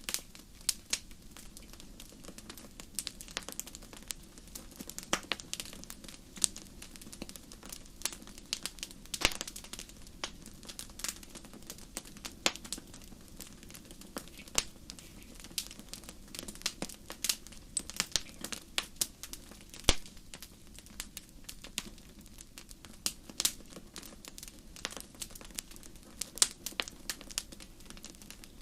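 Wood fire crackling in a fireplace: frequent irregular sharp pops and snaps over a low steady rumble of burning.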